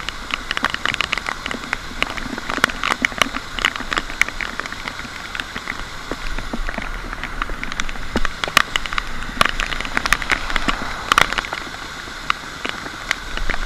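Rain falling steadily, heard as a constant patter with many sharp, irregular drop ticks.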